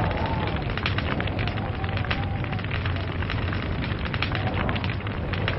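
Log fire crackling, with many small sharp pops and snaps over a steady low rumble of burning.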